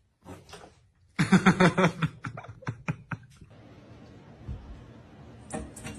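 A person laughing in a quick run of short chuckling bursts that trail off, after a moment of near silence.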